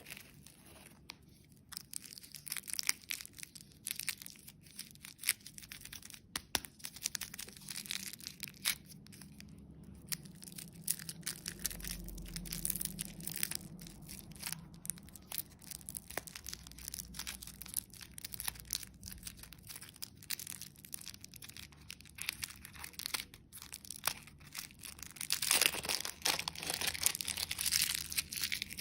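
Plastic wrapping being crinkled and torn open, a long run of sharp crackles with a denser, louder stretch of crinkling near the end.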